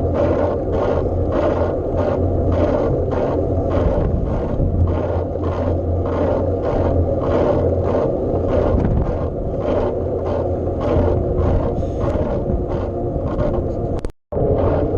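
Steady riding noise on a bike ride: a constant low rumble and hum with a regular pulse about three times a second. The sound cuts out for a moment near the end.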